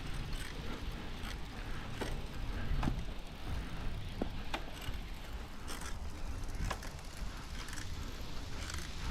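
Bicycle being ridden: a steady low rumble from the riding, with scattered clicks and rattles from the bike at irregular intervals.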